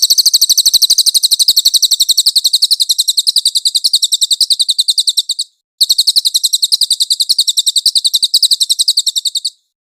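Recorded songbird song: a fast, high trill of sharp repeated notes, about ten a second, in two long strings with a brief break about five and a half seconds in.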